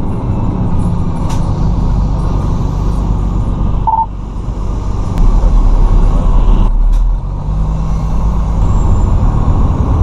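Fire truck engine running with a steady low rumble, heard from inside the cab, swelling louder for a couple of seconds past the middle. A short single beep sounds about four seconds in.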